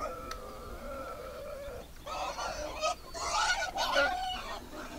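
Birds calling in a series of honking calls, several overlapping and loudest in the second half.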